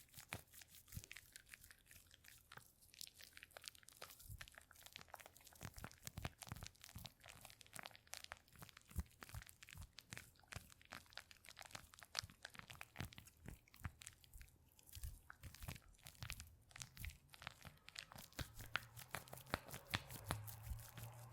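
Faint, dense crackling and crinkling made of many small sharp clicks in quick succession, a little denser and louder near the end.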